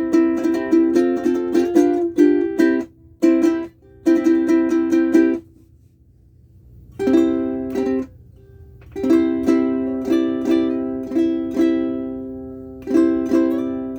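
An aNueNue UC-110 Green Bird mahogany ukulele with aNueNue Green Planet strings played unaccompanied: quick strummed chords, a pause of about a second and a half just before the middle, one ringing chord, another short pause, then steady strumming again.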